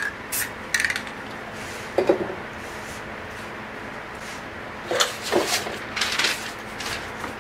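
Short hisses of an aerosol spray-paint can spraying white onto poster board, mostly in the second half, with a knock or two from the can being handled.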